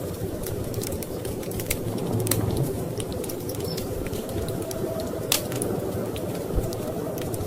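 Wood fire crackling in a fireplace: scattered sharp pops and snaps, one louder pop about five seconds in, over a steady low rumble.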